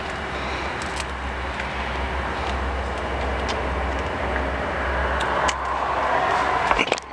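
Steady motor-vehicle noise: a low rumble under an even hiss, swelling slightly toward the end, with a few faint clicks.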